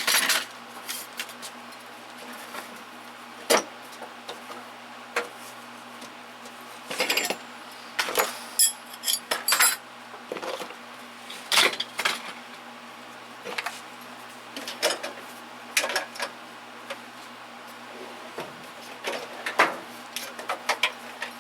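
Metal hand tools clinking and clattering as they are picked up, set down and dropped into steel toolbox drawers, in irregular short clusters of clicks.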